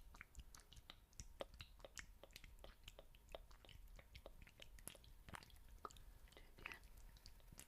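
Faint, irregular crackling clicks, several a second, from ASMR ear-cleaning tools worked against the microphone.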